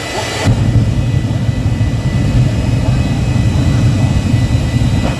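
Jet engine of the Hellblade jet-powered truck running with a steady high whine. A loud, deep rumble comes in suddenly about half a second in as the engine is throttled up, and drops away near the end.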